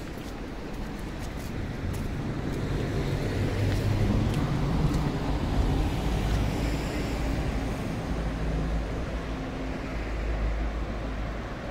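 Engine of a passing motor vehicle over low traffic rumble, swelling to its loudest a few seconds in and then slowly fading.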